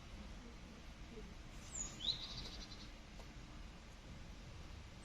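A bird calling once, about two seconds in: a short high phrase of a falling whistle, then a rising chirp and a brief buzzy trill, over faint low background noise.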